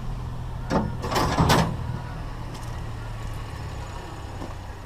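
Pickup truck engine idling steadily, with a short clatter about a second in.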